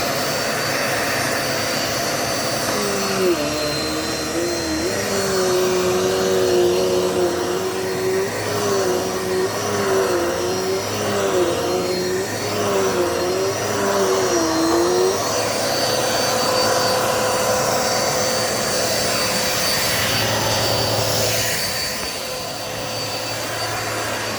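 Dirt Devil multi-surface vacuum cleaner running steadily. From a few seconds in, for about twelve seconds, one note in its sound wavers up and down.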